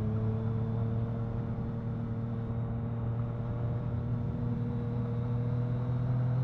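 Motorcycle engine running at a steady cruising speed, its pitch holding nearly level, with wind and road noise around it.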